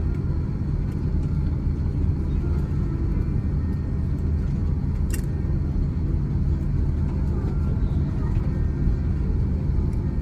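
Steady low rumble inside the cabin of an Airbus A330 taxiing after landing, with a sharp click about five seconds in.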